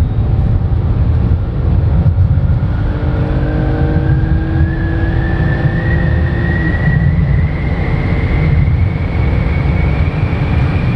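2010 BMW 328i driving, heard from inside the cabin: a steady low road and engine rumble with a faint whine that rises slowly in pitch as the car gathers speed. It is running above 20 mph, where the owner hears none of the noise it makes between 15 and 20 mph.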